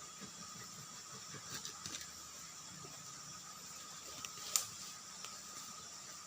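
Irregular creaks, knocks and clicks of a bamboo culm being cut and worked, busiest in the first two seconds, with one sharp click a little past halfway.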